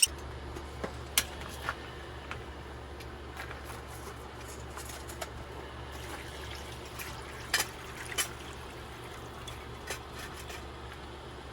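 Stream water running steadily, with a low rumble underneath and a few light clicks or taps.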